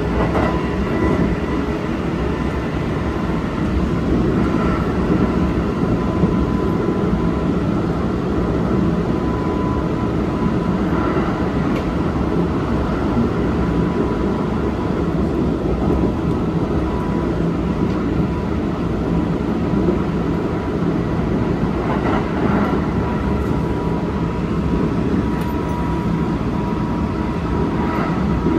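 Kintetsu Osaka Line electric train with Hitachi GTO inverter control running steadily between stations: a dense rumble of wheels on rail with a steady whine and a few faint clicks.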